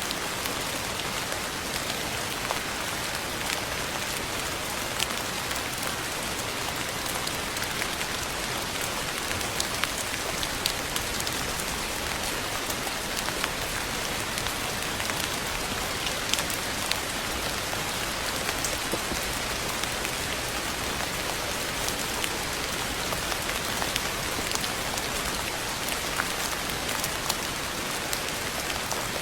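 Steady rain falling, an even hiss of rainfall with many individual drops ticking sharply on a hard surface.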